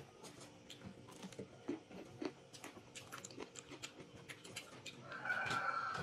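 Close-up wet chewing of juicy pomelo segments: many small mouth clicks and smacks, with a brief higher-pitched sound about five seconds in.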